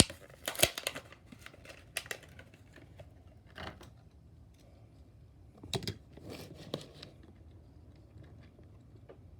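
Plastic blister packaging of a diecast toy car being handled: scattered crinkles and clicks, busiest in the first second and again around six seconds in, then quiet room tone.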